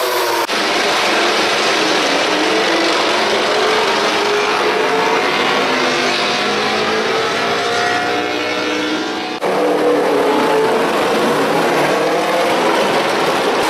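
MotoGP racing motorcycles' four-cylinder engines running at high revs, the pitch climbing and dropping as the bikes accelerate and shift. There are sudden breaks about half a second in and about nine seconds in.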